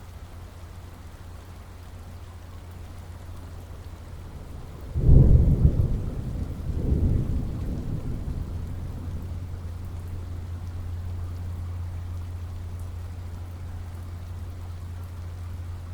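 Thunderstorm: steady rain with a low rumble, broken about five seconds in by a loud clap of thunder. The thunder rolls again a couple of seconds later and rumbles away slowly.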